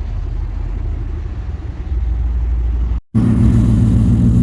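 Car engine running with a deep, steady exhaust rumble. About three seconds in the sound cuts out for a moment and comes back as a louder engine with a stronger, even drone.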